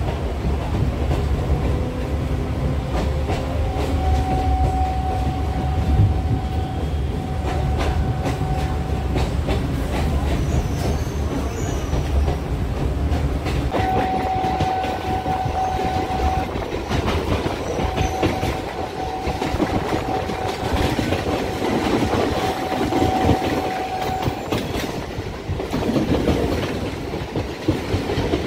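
Electric local train of ICF-built coaches running between stations, heard from on board. Wheels click over rail joints above a steady rumble, and a steady high tone comes and goes several times.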